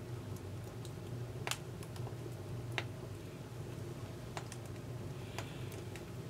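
Wood fire burning in a Contura wood stove, crackling with scattered sharp pops. The loudest come about one and a half and nearly three seconds in, over a steady low hum.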